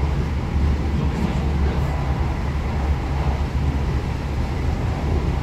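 Steady low rumble of a train running, heard inside a V2N double-deck passenger coach: wheels on rails, with a faint steady high tone over it.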